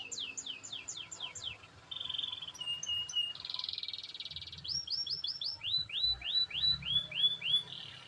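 Domestic canary in full song, singing a fast, varied run of phrases. It opens with a quick series of downward-sweeping notes, moves through a short buzzy trill and a few clipped notes, then ends on a series of rising-then-falling notes.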